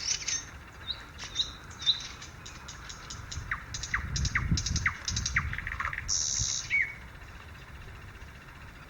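Several songbirds singing. Short high chirps come in the first two seconds, then a run of quick downward-sliding whistles and rapid clicking notes, ending in a brief buzzy trill about six seconds in. The singing falls away over the last two seconds.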